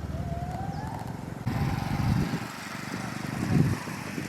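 An idling vehicle engine runs steadily with an even low pulse, and a faint thin rising whistle sounds over it; about a second and a half in the sound changes abruptly to irregular low rumbles and outdoor noise.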